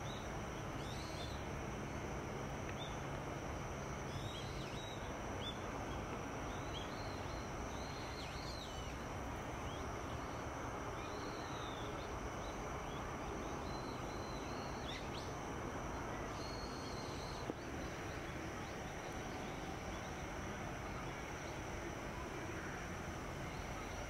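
Short, high chirps of small birds, scattered over the first two thirds, against a steady background hiss and low rumble, with a single click about 17 seconds in.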